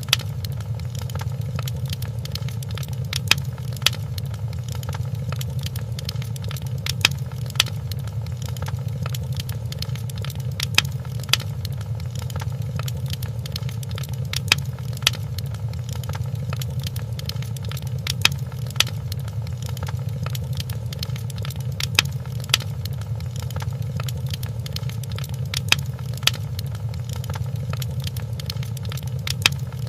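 Wood fire crackling in a fireplace: a steady low rumble of the flames with sharp pops that come in pairs at an even spacing of roughly every three and a half to four seconds.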